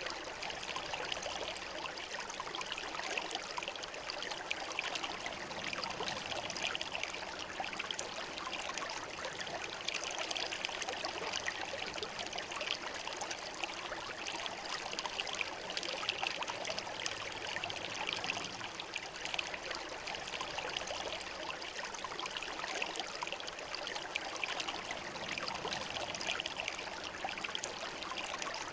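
Shallow river water flowing and trickling steadily over stones, a continuous babbling wash with no pauses.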